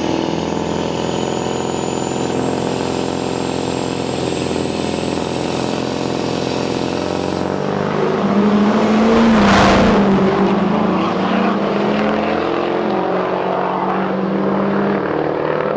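Diesel drag trucks making a pass down the drag strip: a steady engine drone with a high whine that climbs in pitch. It is loudest about nine to ten seconds in and fades near the end.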